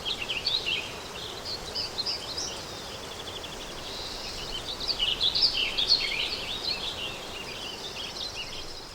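Countryside daytime ambience: small birds chirping and singing over a steady background hiss of wind, with a busy spell of song at the start and a longer one in the middle.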